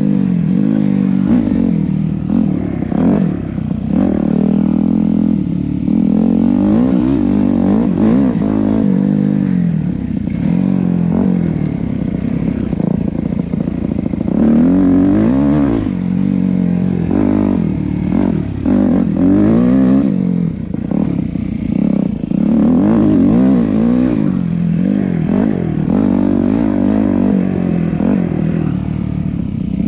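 Yamaha YZ250F four-stroke single-cylinder dirt bike engine being ridden hard, its pitch rising and falling again and again as the throttle is opened and closed.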